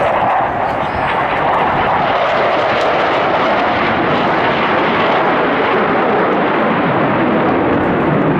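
Aircraft flying past overhead: loud, steady engine noise that holds without a break.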